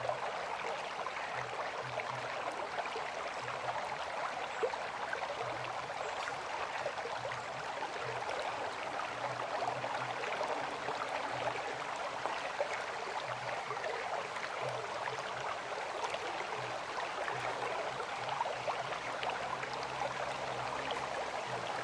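River water flowing steadily, an even rush thick with small splashes.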